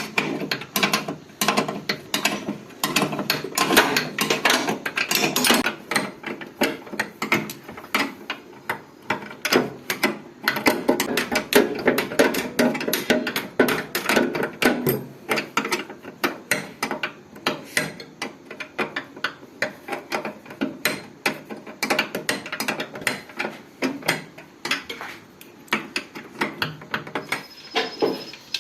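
Metal hand tools working on a tractor during a gearbox repair: a long run of rapid, irregular metallic clicks and knocks.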